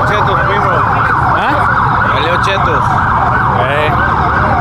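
Several police sirens sounding at once, their rising-and-falling sweeps overlapping, over a steady low rumble.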